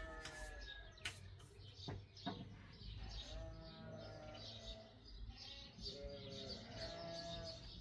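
Livestock bleating, three long calls, with birds chirping steadily in the background and a few sharp knocks about a second or two in.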